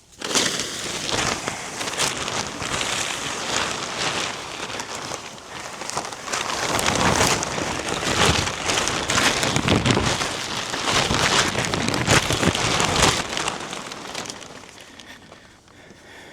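A plastic tarp being spread and pulled over a tractor, crinkling and rustling loudly in uneven waves before dying down about thirteen seconds in.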